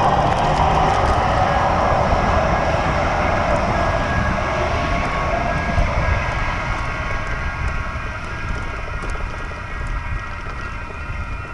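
Steady rumbling travel noise of a vehicle in motion, with a few faint high steady whining tones over it. It eases off slightly after about eight seconds.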